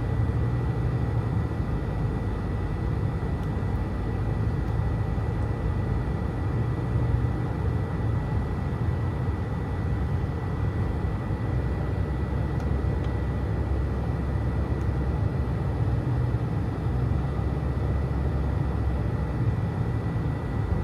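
Steady road noise of a car being driven, heard from inside the cabin: a low, even rumble of tyres and engine, with a faint steady high-pitched whine.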